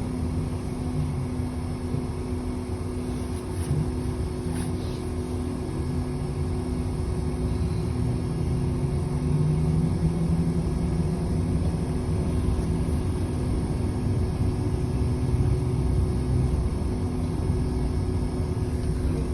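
City bus on the move, heard from inside the passenger cabin: a steady low engine and road rumble with a constant hum, swelling slightly partway through.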